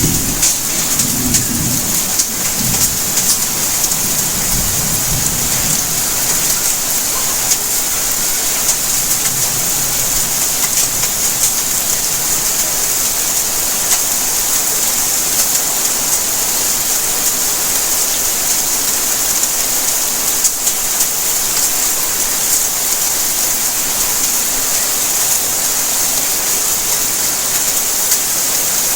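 Steady, heavy rainfall, a dense even hiss of drops on surfaces. A low rumble of thunder dies away over the first few seconds.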